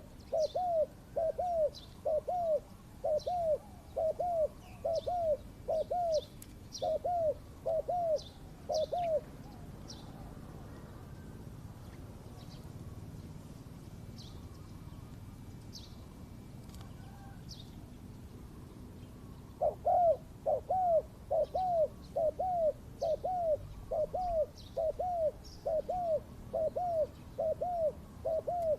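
Spotted dove cooing in a fast run of short, identical notes, about two a second. The run breaks off about nine seconds in and starts again near twenty seconds. Small birds chirp faintly in the background.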